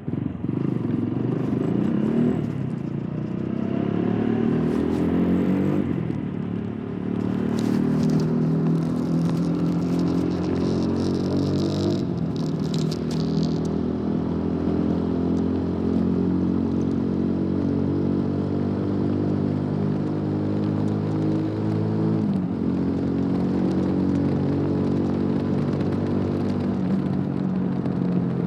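TVS Apache RTR 200 4V's single-cylinder engine through its stock exhaust, pulling away and shifting up through the gears: the engine note climbs in pitch and drops at each shift, then holds a steady cruising note.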